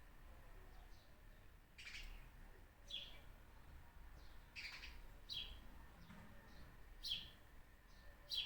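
Birds chirping faintly: short, quick calls that sweep down in pitch, about half a dozen clear ones spaced irregularly, with fainter ones between, over a low background rumble.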